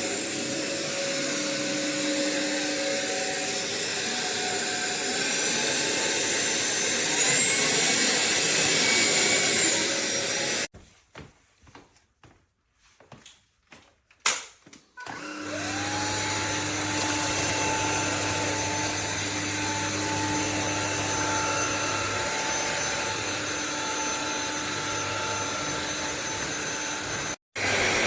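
Sulean X8 cordless stick vacuum running, its motor whine stepping up in pitch about seven seconds in. It switches off for about four seconds, with a few clicks in the pause, then starts again with a rising whine that settles into a steady run.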